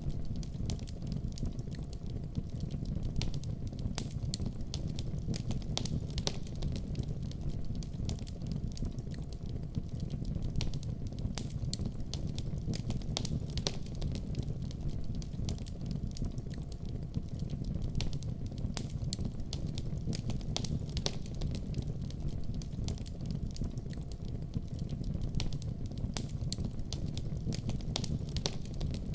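Wood fire burning in a fireplace: a steady low rumble of flames with many small sharp crackles and pops scattered throughout.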